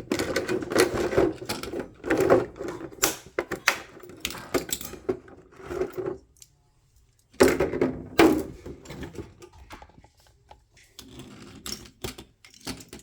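Toy packaging being opened and handled by hand: dense, irregular clicks, scrapes and rattles, broken by a pause of about a second just past the middle.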